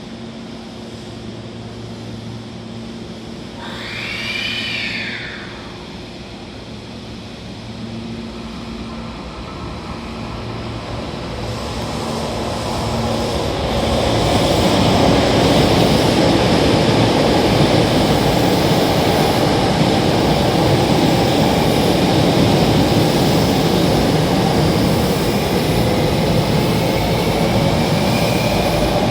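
Hankyu 1000-series electric train departing: a low steady hum at first, then a short rising-and-falling tone about four seconds in. Wheel and motor noise then builds over several seconds and stays loud as the train gathers speed, with the motor whine climbing in pitch near the end.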